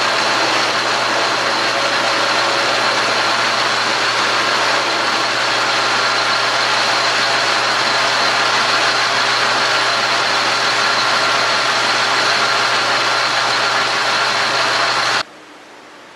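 Metal lathe running steadily through a turning pass on steel stock, a constant mechanical whine with several steady tones over a noisy hiss. It stops abruptly about a second before the end.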